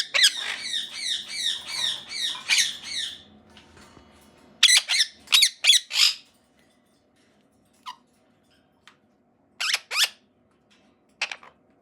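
Indian ringneck parakeet squawking: a fast run of harsh calls, about three a second, for the first three seconds, then a burst of four loud shrill calls, then single calls spaced a second or two apart.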